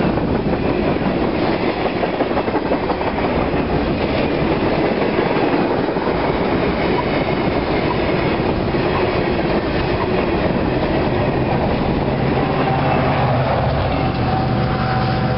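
Freight cars of a passing freight train rolling by at close range, their steel wheels rumbling and clacking over the rail joints. Near the end the last cars pass, the rolling noise thins, and a steady hum with a higher tone is left.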